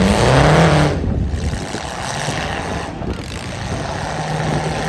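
Demolition derby car engines running loud, one revving up in the first second.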